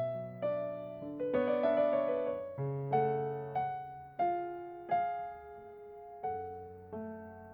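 Background piano music: a slow, gentle melody, each note struck and left to fade, about one or two notes a second.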